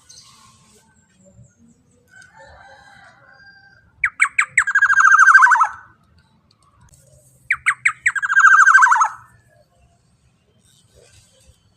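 Black-naped oriole (kepodang emas) giving two loud, harsh calls about three and a half seconds apart. Each call opens with a few quick sharp notes and runs into a rasping screech of about a second and a half that slides down in pitch.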